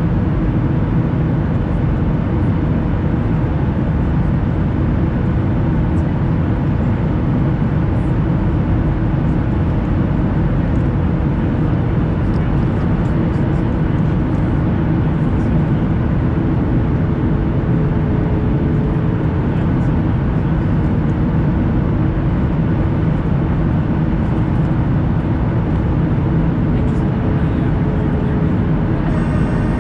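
Steady cabin noise of a Boeing 737 airliner in flight: the even rush of engines and airflow, heaviest in the low range, with a faint steady hum.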